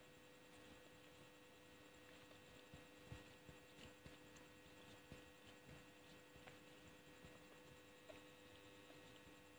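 Near silence: a faint steady electrical hum with a few faint, soft mouth clicks from quiet chewing of gummy candy.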